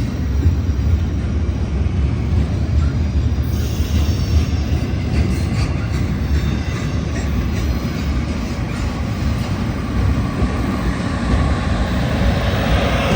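Union Pacific double-stack intermodal freight cars rolling past close by, a steady loud rumble of steel wheels on the rails.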